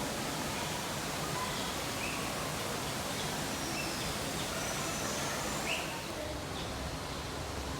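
Steady rushing background noise with a few faint, short bird chirps scattered through it. The high part of the noise drops off about six seconds in.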